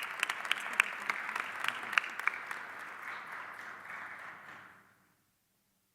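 Audience applauding, thinning out and stopping about five seconds in.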